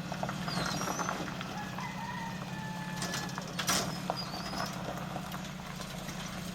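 A vehicle engine idling steadily, with birds calling over it in short high chirps and one sharp click about halfway through.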